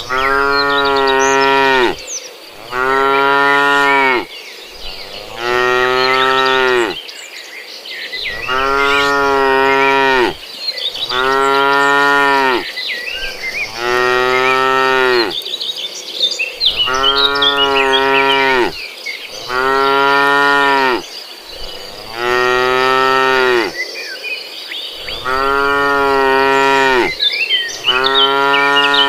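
Cattle mooing over and over: long, drawn-out calls of about two seconds each with short gaps between, about eleven in all, each bending slightly in pitch. High, faint chirping runs underneath.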